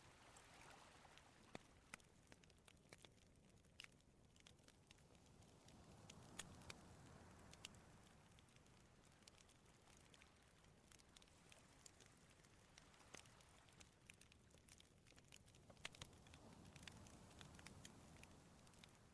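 Wood campfire crackling with scattered sharp pops. Sea waves wash in softly behind it, swelling twice, about a third of the way in and again near the end.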